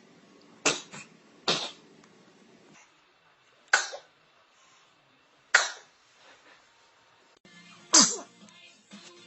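Baby sneezes: five short, sharp sneezes at irregular gaps of one to two seconds.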